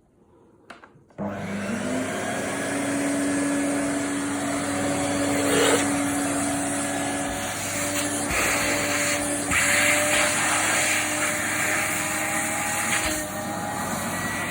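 Vacuum cleaner switched on about a second in, its motor whine rising quickly to a steady pitch, then running steadily with the sound changing briefly a few times.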